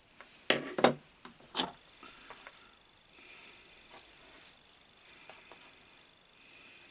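Hand tools and small wiring parts handled on a workbench: three sharp clacks in the first couple of seconds, then soft rubbing and rustling, with a faint steady high whine underneath.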